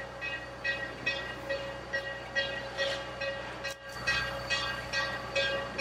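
A train running, with an even pulse a little over twice a second over a bed of steady held tones; the level drops briefly a little before the four-second mark.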